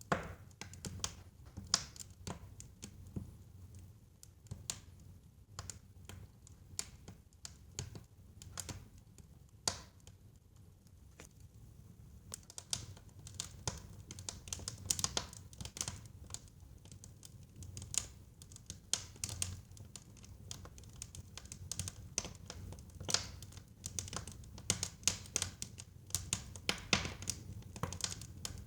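Wood fire crackling in a fireplace: a steady stream of irregular sharp pops and snaps over a low rumble of the flames, growing busier in the second half.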